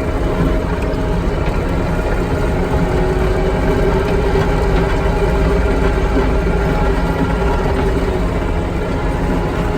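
Heavy machinery's diesel engine running steadily, its pitch rising slightly in the middle and then easing back.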